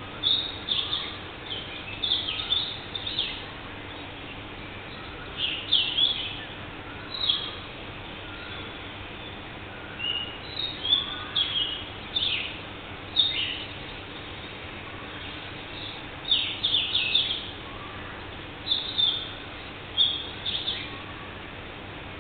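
Birds calling: clusters of short, sharp, high chirps, each note dropping quickly in pitch, come every second or two over a steady background hiss.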